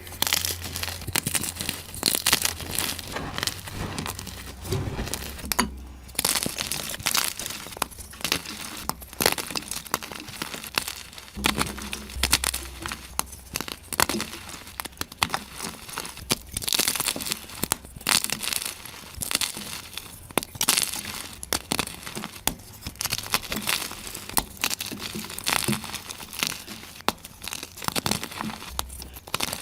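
Blocks of gym chalk being crushed and crumbled, a dense, continuous run of crisp crunching and crackling, played back sped up.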